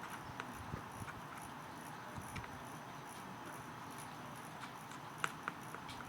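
Light scattered clicks and taps of small tools handling parts while wires are soldered to a model locomotive's light bulbs, over a steady background hiss; two sharper clicks come about five seconds in.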